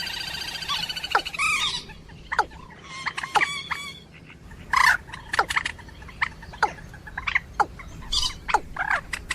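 Rail-family waterbird calls from a moorhen and watercock lure recording. It opens with a run of repeated harsh notes, then changes to sharp, quick down-sweeping call notes, scattered a few to the second.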